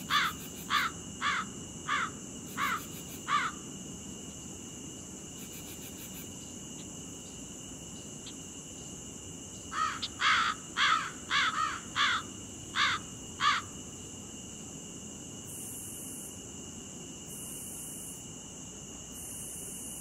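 A bird calls in two runs of short, falling notes: six evenly spaced at the start, then a quicker run of about eight in the middle. Under them insects chirr steadily at a high pitch, with fainter high pulsed chirps now and then.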